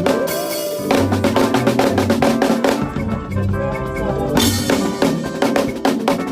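Drum kit playing a busy makossa praise groove over band music with a bass line. Around the middle the cymbals drop away for a second or so, then the full beat comes back in.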